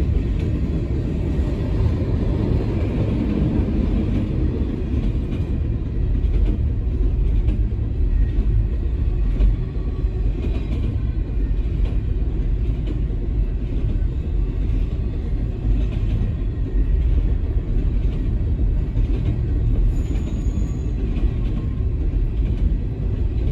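Freight train cars rolling past at speed: a steady low rumble of steel wheels on the rails.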